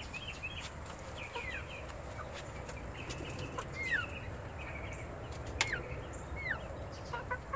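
Birds chirping: short, high calls that fall quickly in pitch, repeated every second or so, with a few light clicks in between.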